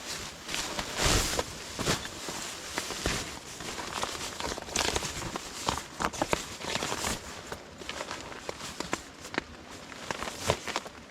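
Irregular rustling and crinkling with scattered clicks and knocks, the loudest knock about a second in.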